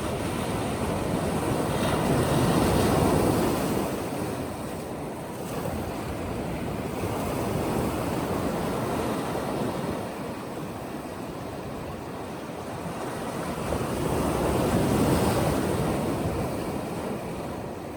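Ocean waves breaking and washing up a sandy beach, a continuous surf noise that swells twice, about three seconds in and again near the end.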